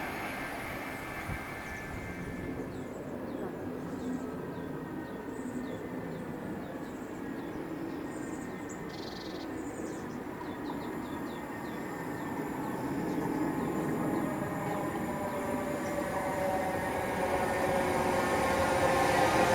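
A train approaching on the main line: a steady rumble that grows louder over the second half, with pitched running tones building near the end. Birds chirp faintly in the middle.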